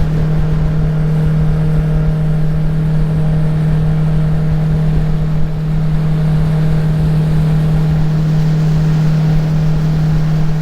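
Jet boat's outboard jet-drive motor running steadily at speed, a constant loud engine drone that holds one pitch throughout.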